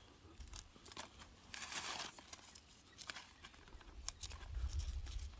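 Rustling and crinkling of pepper plant leaves being handled, loudest about one and a half seconds in, with scattered sharp clicks and a low rumble near the end.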